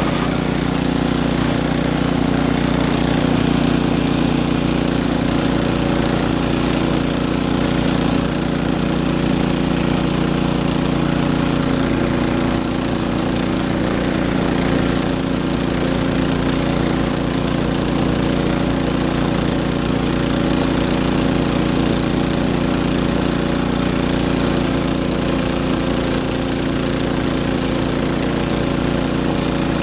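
Gas snow blower engine running steadily under load, with a fast, even putter throughout.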